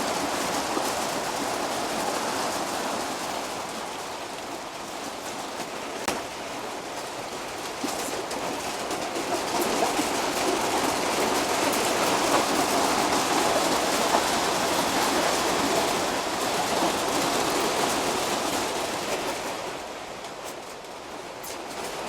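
Steady rain falling, a hiss that grows louder through the middle and eases for a moment near the end, with a couple of light clicks about six and eight seconds in.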